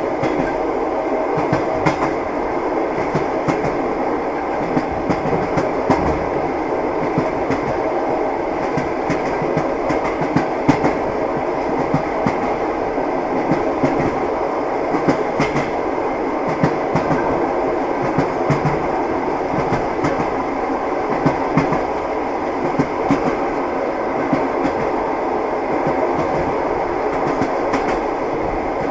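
Passenger train running at speed, heard from inside the carriage: a steady rumble of wheels on rails with frequent clicks and knocks as the wheels pass over rail joints.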